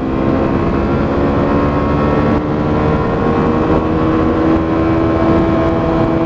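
125cc motorcycle engine running steadily on the move, its note rising slowly, over a dense low rumble.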